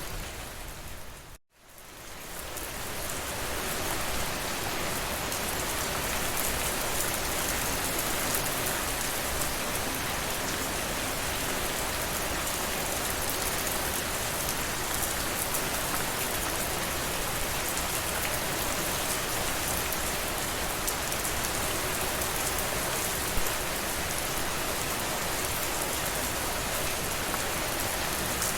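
Steady rainfall, an even dense hiss of many raindrops. About a second and a half in it fades out to a brief silence, then fades back up over the next two seconds and holds steady.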